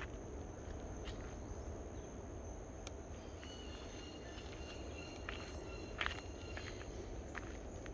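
Outdoor nature ambience: a steady high insect buzz, with a few short high calls in the middle and scattered clicks or light steps, the sharpest about six seconds in.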